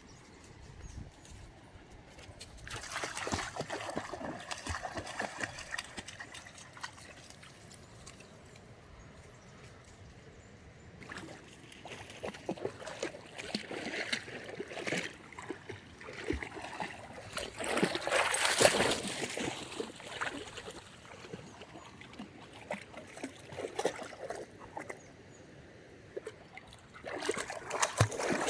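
Water splashing and sloshing in several irregular bursts, as dogs play in a river, the loudest burst a little past the middle.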